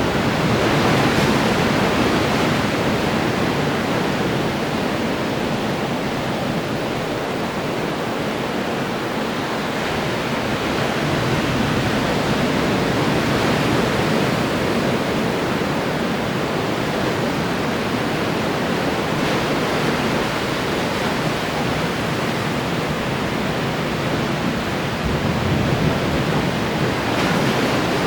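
Ocean surf: waves breaking and washing ashore in a continuous rush, swelling a little about a second in and again near the end.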